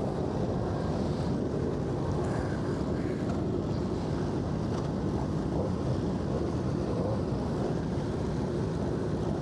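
Steady wind rush buffeting the microphone of a motorcycle at road speed, covering the engine.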